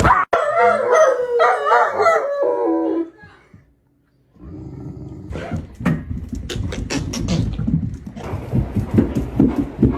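A dog howling and whining in a wavering, sliding pitch for about three seconds, then a short gap and a noisy stretch of rustling with scattered knocks.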